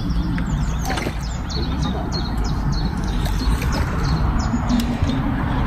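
Small birds chirping repeatedly with short, high, down-sweeping notes, over a steady low rumble.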